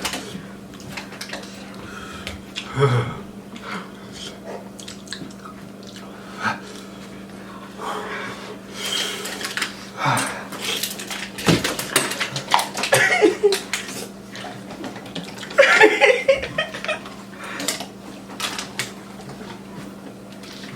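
People eating noodles: irregular slurping, chewing and utensil clicks, with a short vocal sound, a gasp or grunt, about sixteen seconds in.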